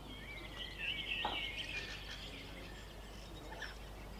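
Small birds chirping and twittering in quick high wavering notes, with a light tap about a second in.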